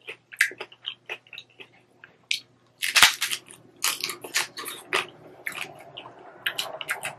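Crisp corn hard-shell taco being bitten and chewed. A loud crunch about three seconds in, then repeated crackling crunches as the shell is chewed.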